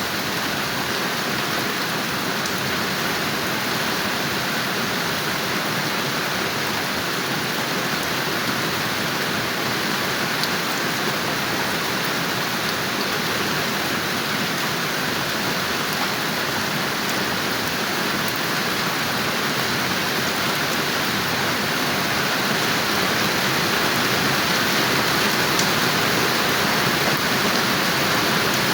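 Steady rain falling, an even hiss with scattered faint drop ticks, getting slightly louder near the end.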